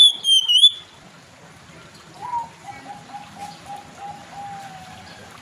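Oriental magpie-robin (kacer) singing: a loud, high whistled phrase sliding up and down ends about a second in, followed by a soft run of low repeated notes, about three a second.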